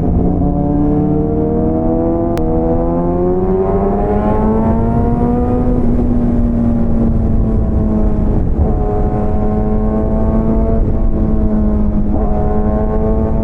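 Motorcycle engine running under way, its pitch rising steadily as it accelerates for a few seconds, then holding at a steady cruise with a couple of brief dips, over a constant rush of wind and road noise.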